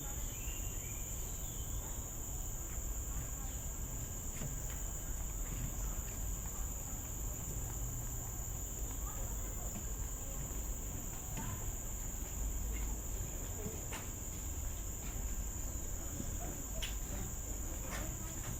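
A chorus of insects making a continuous high-pitched drone that holds steady throughout, in tropical forest.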